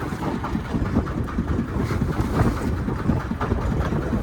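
Vehicle engine running in motion, a steady rumble with irregular low knocks and wind on the microphone.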